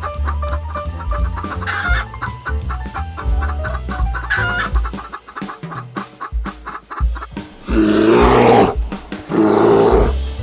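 Chickens, a rooster and a hen, clucking over background music with a steady drum beat. In the last three seconds two loud, rough calls of about a second each stand out above the music.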